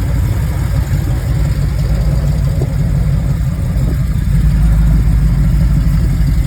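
A vehicle engine running at low revs, a deep steady rumble that grows a little louder about four seconds in.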